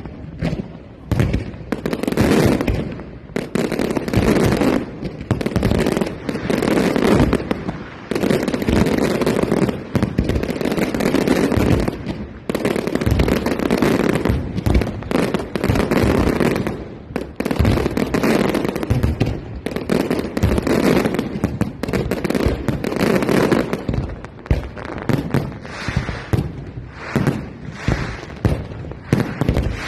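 Fireworks display in full barrage: a dense, near-continuous run of bangs and crackling bursts, easing briefly twice before building again.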